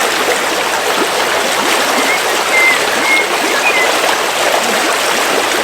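River water flowing steadily. A bird gives a few short, high chirps about two to four seconds in.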